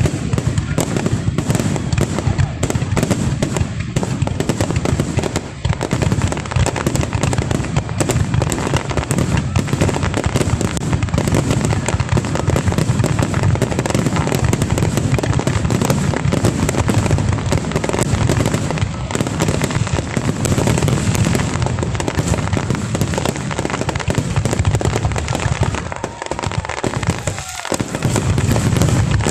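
Aerial fireworks going off in a dense barrage of rapid, overlapping bangs and crackles, with a brief lull about 26 seconds in.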